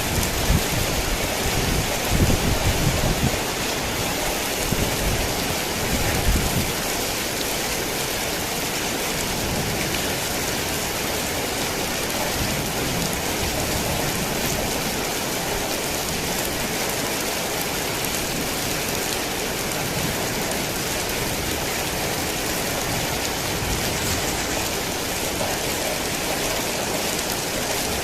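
Heavy rain falling steadily, an even hiss of many drops. There is a low rumble underneath for the first six seconds or so, which then fades.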